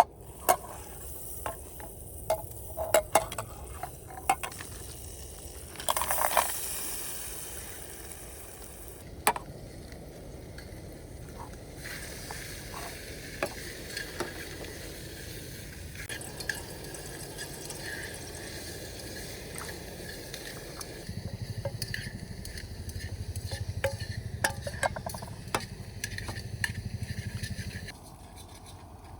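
Sizzling and crackling of camp cooking over a fire, with scattered sharp clicks and clinks of metal cookware and utensils, and a louder hiss about six seconds in.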